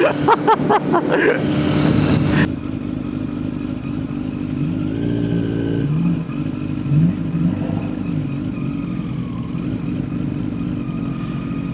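Kawasaki ZX10R's inline-four engine running at low speed with a steady hum, its note rising briefly about five seconds in. Loud wind rush over the first two seconds cuts off abruptly.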